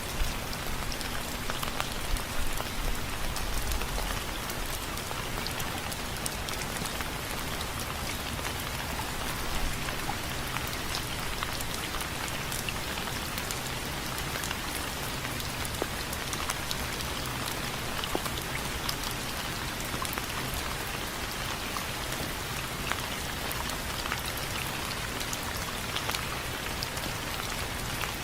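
Steady rain, with many separate drops ticking sharply on a window frame.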